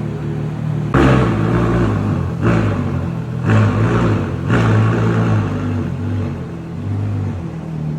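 Ferrari F12berlinetta's V12 through a Novitec exhaust, a low rumble broken by four loud bursts of revs about a second apart, each cutting in suddenly.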